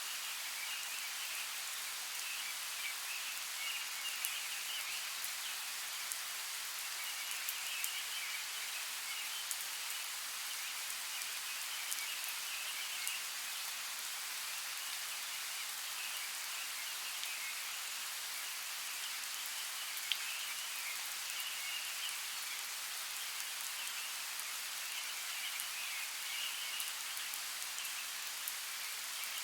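Steady hiss of falling or running water, dotted with scattered sharp drip-like ticks. Over it runs a high chirring chorus that swells and fades every few seconds.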